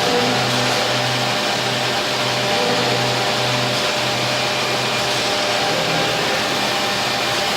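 Weeke BMG 111 CNC wood machining centre running, a steady machine whir and hiss with a low hum underneath.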